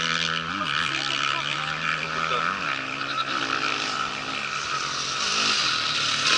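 Off-road rally motorcycle engine running at steady revs, with the revs briefly blipped up twice, over a constant hissing noise.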